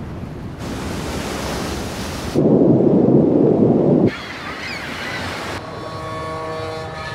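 A string of hard-cut ocean sounds: a low rush, then a hiss of surf, then a much louder low rush of water for a couple of seconds, then short gliding whistle-like chirps. From a little over halfway, a steady chord of held tones comes in.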